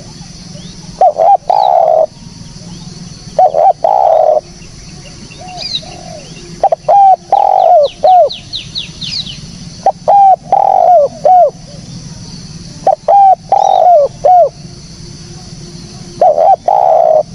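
Spotted dove cooing: phrases of two or three short coos leading into a longer one, repeated about every three seconds, six times. Small birds chirp faintly in the background.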